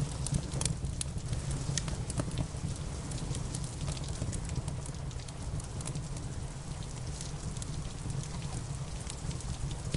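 Wood fire crackling, with irregular sharp pops and snaps, over a steady hiss of rain and a low, even rumble.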